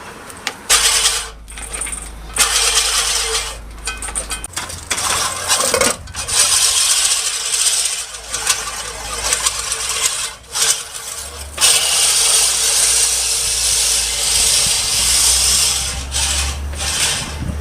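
Metal clattering and rattling from a manual push reel mower being handled. It comes in uneven stretches with short breaks.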